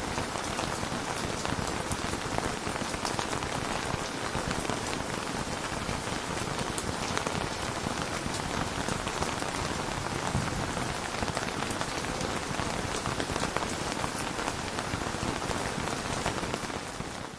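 Steady heavy rain, a dense patter of drops, fading out near the end.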